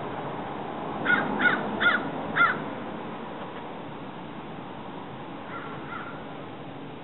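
A bird calling: four short calls about half a second apart, starting a second in, then two fainter calls near the end, over a steady background hiss.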